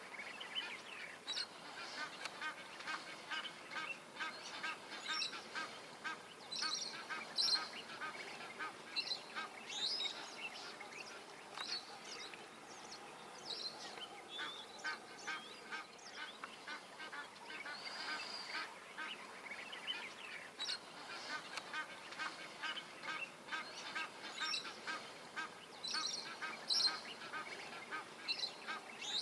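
A chorus of marsh birds calling, many short calls overlapping, rapid repeated notes mixed with brief high whistles.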